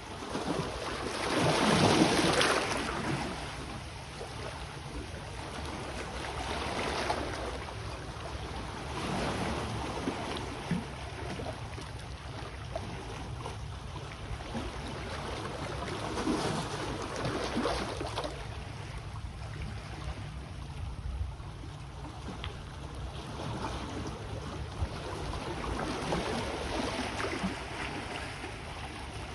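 Sea waves washing onto the shore: the surf swells and fades every few seconds, the loudest wash about two seconds in, over a steady low rumble.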